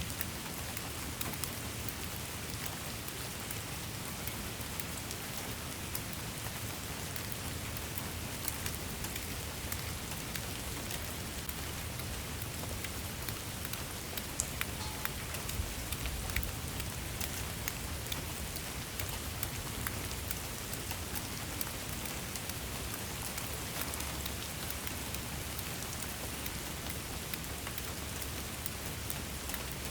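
Steady rain falling, with a continuous hiss and many individual drops ticking sharply on a surface.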